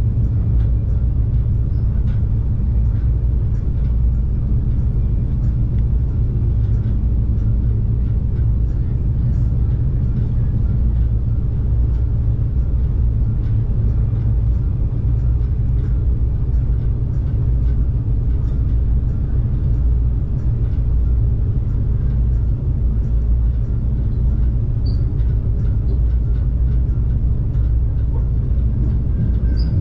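Stadler GTW diesel multiple unit running along the track at speed, heard from inside the passenger car: a steady low rumble.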